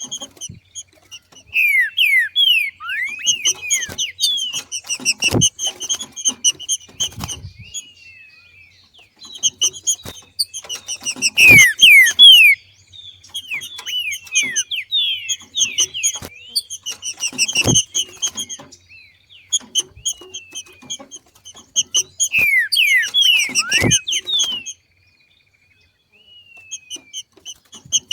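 Green-winged saltator (trinca-ferro) giving its 'macheado' breeding call: bouts of rapid chattering notes mixed with down-slurred whistles, pausing briefly near the end. A dull thump comes about every six seconds.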